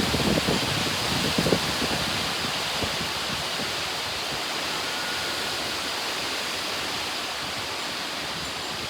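Strong thunderstorm wind gusts making a loud, steady rush, with a few harder gusts hitting in the first two seconds before it settles into a constant roar of wind.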